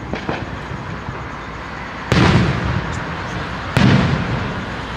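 Aerial fireworks shells bursting: two loud booms, about two seconds in and again just under four seconds in, each fading out, with a steady rumble and crackle of other bursts between.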